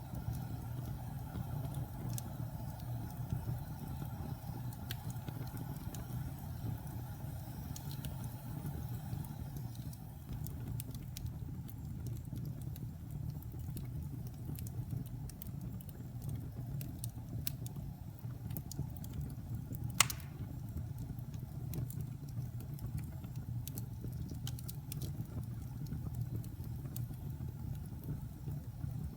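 Wood fire burning in a fireplace: a steady low rumble with scattered small crackles, and one sharper pop about two-thirds of the way through.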